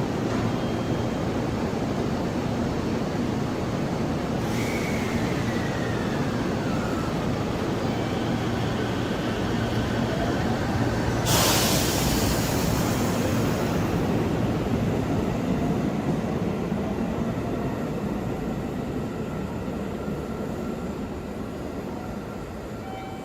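Train running with a steady rumble, a falling squeal about five seconds in, and a sudden burst of hissing about eleven seconds in that lasts a few seconds; the rumble grows quieter near the end.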